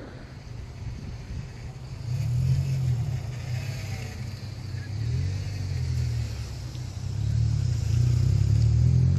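A motor vehicle's engine running and pulling away, a low hum that grows louder about two seconds in and again near the end.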